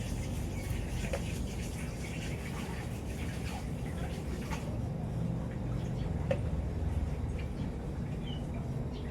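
Water splashing and dripping, with scattered small knocks over a low steady hum.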